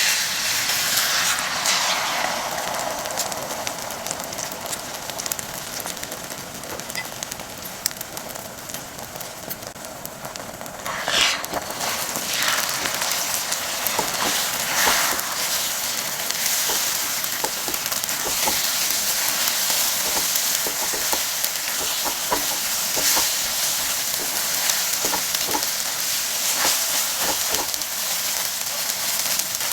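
Food frying in hot oil in a pan: a steady sizzle that starts suddenly and loudly, eases over the first few seconds, then builds again about a third of the way in, with scattered short clicks throughout.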